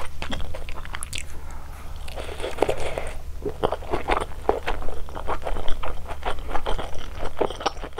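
Close-miked chewing of malatang: a steady run of short, crisp crunches and bites, with a softer, wetter stretch about two to three seconds in, over a low steady hum.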